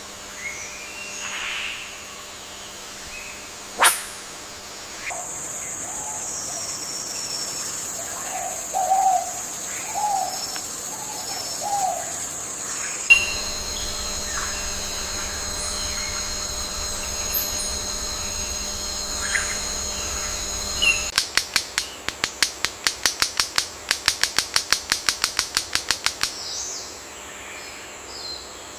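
Wild birds calling over a forest background that changes abruptly several times. There are sharp single calls near the start, a few short low calls around the middle, and a steady high buzz through the middle. Later comes a fast run of sharp pulses, about five a second, lasting some five seconds.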